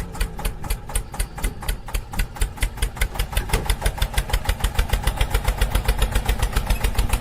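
Tractor engine running with a steady, even chugging beat, about seven beats a second.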